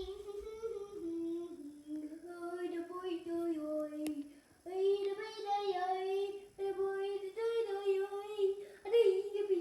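A child singing a melody in held notes that step up and down, with short pauses between phrases.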